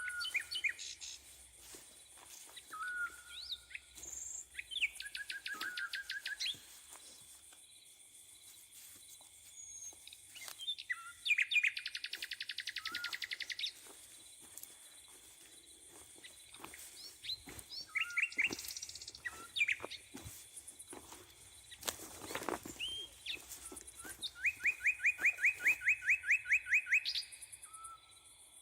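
Several songbirds singing in a spring forest at morning. Loud trilled songs of evenly repeated notes, each lasting two to three seconds, come three times, mixed with shorter calls and chirps. A brief rustling noise comes about two-thirds of the way through.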